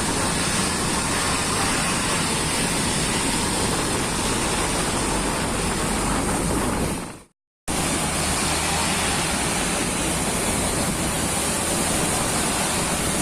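A loaded truck running on a wet road: a steady engine rumble under a constant hiss of tyres on wet tarmac. The sound cuts out completely for a moment about seven seconds in, then comes back unchanged.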